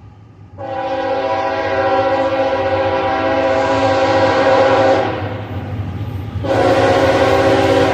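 Multi-note air horn of a rebuilt GE CM44AC locomotive leading a coal train: one long chord blast of about four seconds, then a second long blast starting about a second and a half after it ends, over the steady low rumble of the locomotives.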